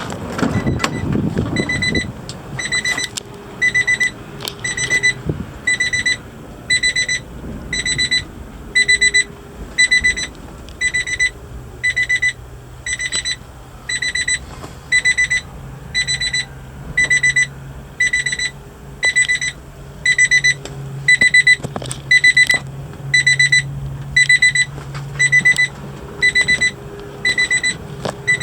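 Vehicle electronic warning beeper sounding steadily, about three short high beeps every two seconds. A low steady hum comes in partway through.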